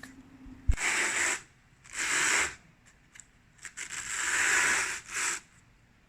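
A small soft bag being opened and handled: three rasping, rustling scrapes, the last and longest about four seconds in, with a short thump just before the first.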